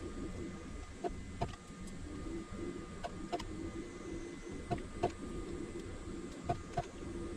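A steady mechanical hum, with sharp clicks in pairs about every one and a half seconds.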